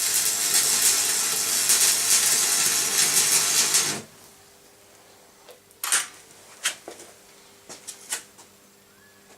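Loud steady hiss over a low electrical hum, cutting off suddenly about four seconds in, followed by a few faint clicks and knocks.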